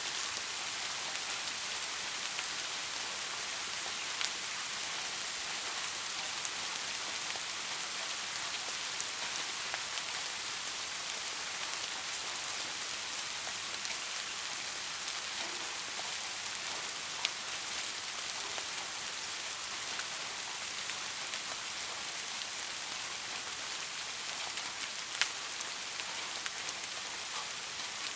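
Steady rain falling, an even hiss with scattered louder drops ticking on a surface now and then.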